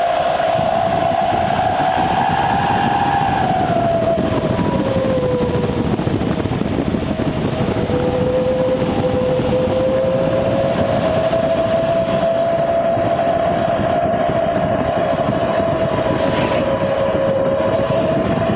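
Engine running loud through an aftermarket racing exhaust, held at raised revs so it drones steadily, its pitch drifting slowly up and down: dipping a few seconds in, climbing again near the middle, and sagging briefly near the end.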